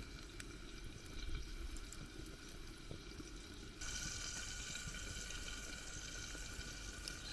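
Campfire crackling and sizzling under meat and vegetable skewers, with small scattered pops. It gets louder about four seconds in.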